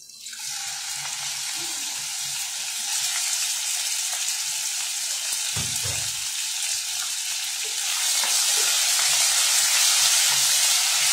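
Raw chicken breast strips sizzling as they fry in hot oil in a nonstick wok, stirred with a wooden spatula: a steady frying hiss that starts as the meat goes in and grows a little louder over the last few seconds, with a soft knock near the middle.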